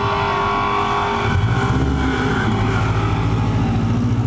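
Car engine running at low speed close by, a steady low rumble that grows louder about a second and a half in.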